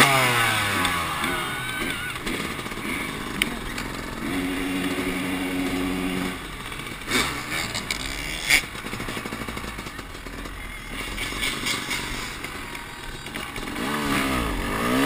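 Motocross motorcycle engine heard from on the bike: the revs fall away at the start, it holds a steady note for a couple of seconds, drops back with a couple of sharp knocks in the quieter middle, then revs up again near the end.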